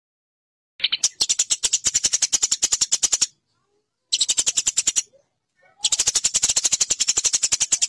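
Eurasian tree sparrow chattering: fast runs of sharp chirps, about ten a second, in three bursts. The first burst starts about a second in, and the last runs on to the end.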